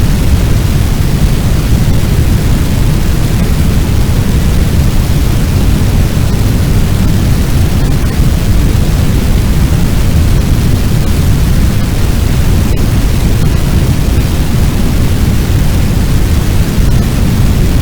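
Fire sound effect: a loud, steady, deep rushing rumble of noise with no breaks, heaviest in the low end, like a large blaze burning.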